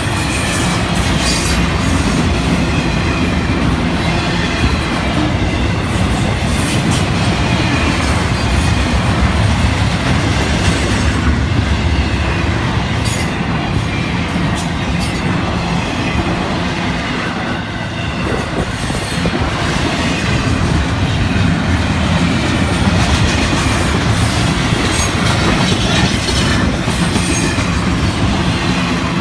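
Florida East Coast Railway freight cars rolling steadily past, with a continuous heavy rumble of steel wheels on rail and the clickety-clack of wheels over rail joints. A thin squeal of wheels against the rails runs through it.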